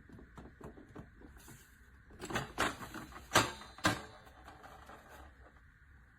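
Light clicks and knocks of things being handled, with four louder sharp knocks between about two and four seconds in.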